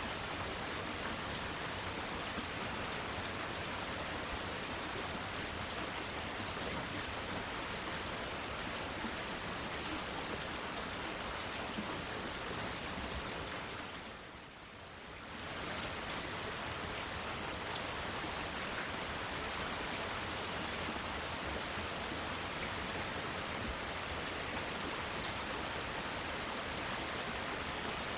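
Steady rain falling, an even hiss with scattered faint drop ticks. It briefly dips quieter about halfway through, then comes back to the same level.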